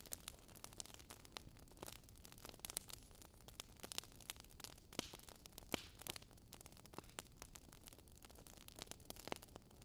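Campfire crackling: irregular sharp pops and snaps, a few louder than the rest, over a faint low hiss.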